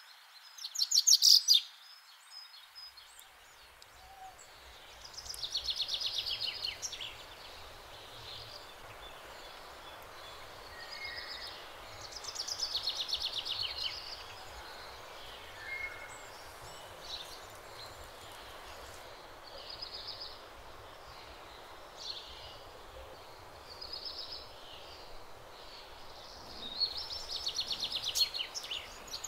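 Small birds singing: short, high, rapid trills and chirps every few seconds, the loudest about a second in and again near the end, over a steady outdoor hiss.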